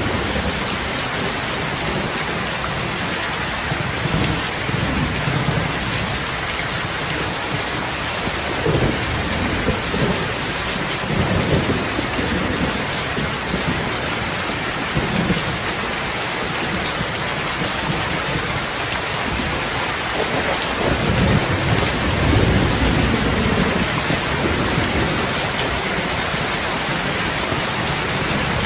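Heavy, steady rain with repeated low rolls of thunder, the longest and loudest in the last third.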